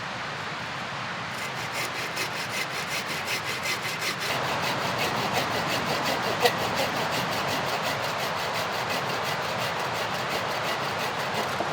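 Hand saw cutting wood in quick, even back-and-forth strokes, starting about a second in, over the steady rush of a river.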